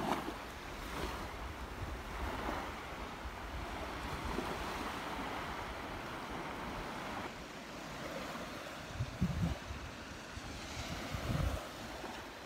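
Gulf of Mexico surf breaking and washing up the beach, a steady hiss that swells and eases. Wind buffets the microphone in short low rumbles, twice near the end.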